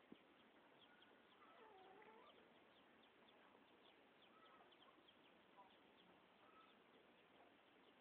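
Faint bird calls: many short high chirps mixed with a few longer swooping calls, scattered through the whole stretch.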